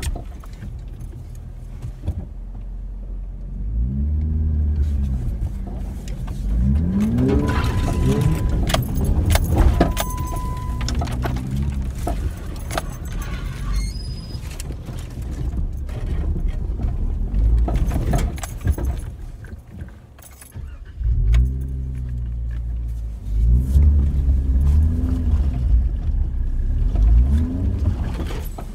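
A vehicle's engine revving in repeated rising and falling bursts as it is driven in reverse up a slope off-road, with a lull near the middle. Two short high beeps sound about eight and ten seconds in.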